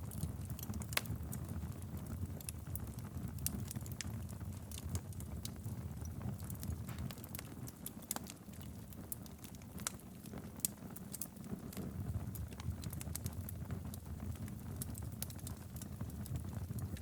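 Wood fire crackling in a fireplace: a steady low rumble of the flames with many small irregular pops and snaps.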